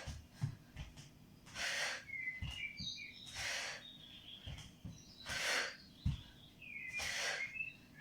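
A person exercising, breathing out hard about every two seconds in time with the movement, with soft footfalls on the floor between breaths and faint short chirps.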